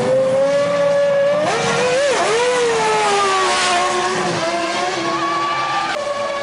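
Formula One car's V10 engine running at high revs, its pitch wavering, dipping sharply about two seconds in and climbing back.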